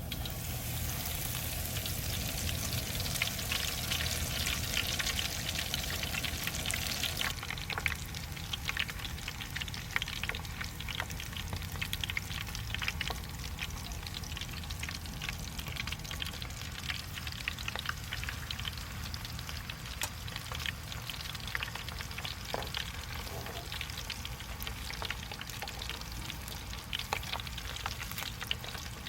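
Food frying in hot oil: a dense sizzle with scattered crackles. It is loudest and brightest for about the first seven seconds, then drops suddenly to a steadier, softer sizzle.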